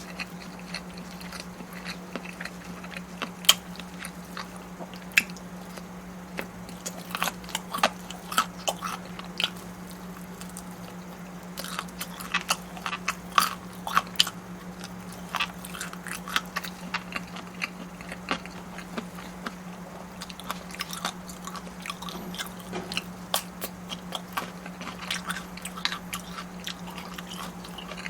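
Close-miked eating: biting and chewing with irregular sharp, crisp clicks and crunches, over a steady low hum.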